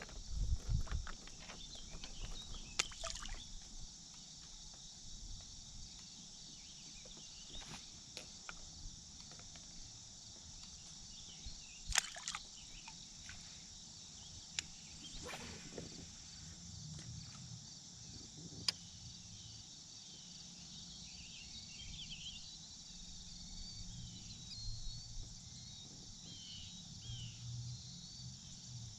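Steady high-pitched insect chorus over a quiet lake, with a few scattered sharp clicks and knocks, the loudest about twelve seconds in.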